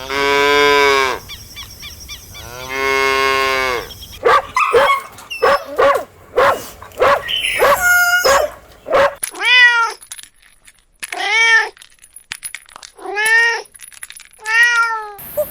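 Two long, low cow moos, followed by a quick run of short, mixed animal calls and then four rising-and-falling cat meows.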